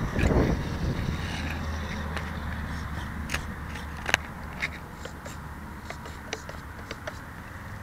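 Wind rumbling on the microphone, with a louder rustle near the start and scattered small clicks and scrapes of an RC plane being handled and checked over.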